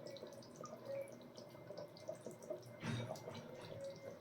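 Faint bubbling and small popping from a pot of thick mutton curry simmering, with a soft knock about three seconds in.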